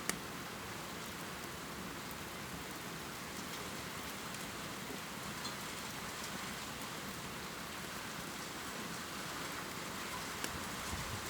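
Steady heavy rain pouring, an even hiss with a few sharper drip clicks now and then.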